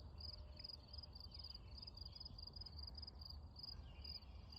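Faint cricket chirping in an even rhythm, about three high chirps a second, over a low background rumble.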